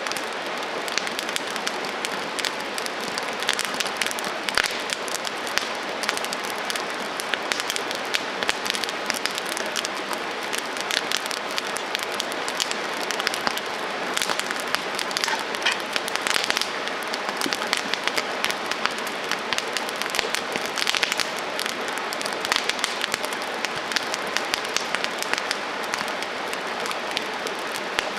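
Campfire crackling: many irregular pops and snaps over a steady hiss.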